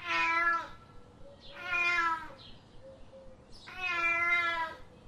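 Three drawn-out animal calls, each about a second long and held at an even pitch, spaced about two seconds apart.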